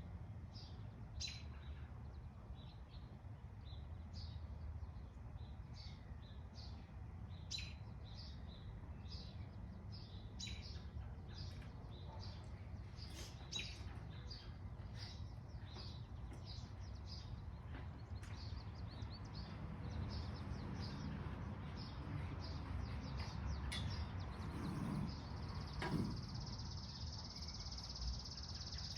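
Songbirds chirping, a steady run of short high chirps, over a low background rumble. A few seconds before the end a steady high hiss starts and runs on.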